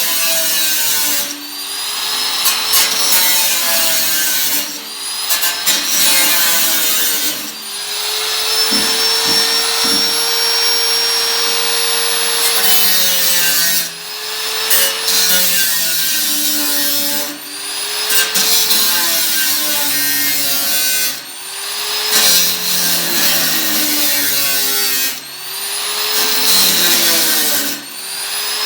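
Power tool cutting the thin sheet steel of an 18-litre tin can, in repeated passes of a few seconds, with a brief dip in the noise between passes.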